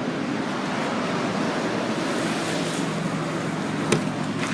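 Steady road-traffic noise, with one sharp click about four seconds in.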